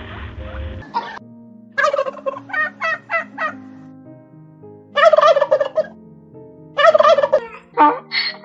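A bird calling in three bursts of fast, rattling notes, the last two short and loud.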